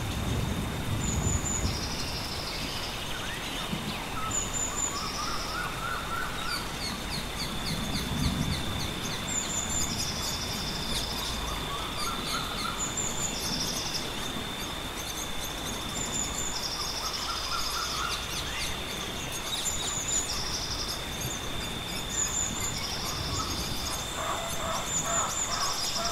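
Nature soundscape of birds calling: short high calls repeating every second or two, with occasional lower chirping phrases, over a steady high whine. Low rumbles come near the start and again about eight seconds in.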